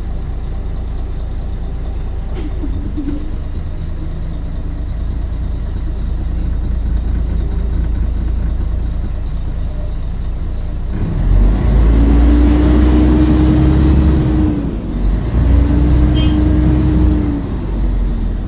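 Scania L113CRL bus's 11-litre diesel engine running with a steady low drone. About eleven seconds in it grows louder as the bus pulls away under power, with a steady whine that holds for a couple of seconds, dips briefly, then comes back.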